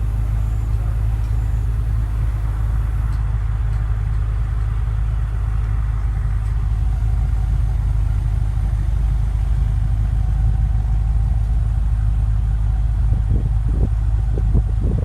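BMW M5 (F10) twin-turbo V8 idling with a steady low hum.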